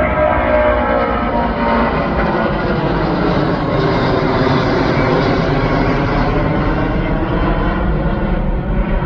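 Jet airliner engines passing by, a loud steady rush with whining tones that slide down in pitch in the first second or two.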